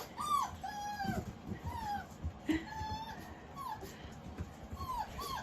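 Six-week-old Aussiedoodle puppies whining and whimpering: a scattering of short, high, thin cries that rise and fall in pitch, several in quick succession.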